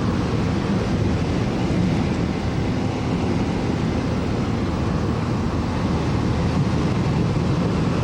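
Steady road noise heard from inside a moving car on a highway: tyres and engine running evenly, with no change through the stretch.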